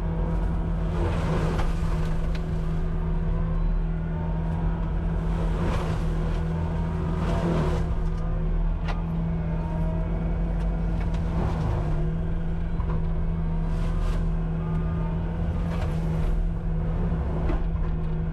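Cat 259D compact track loader running at a steady high engine speed with a forestry mulcher, a constant low hum under it. Whining tones glide up and down, and several short rushes of noise come and go.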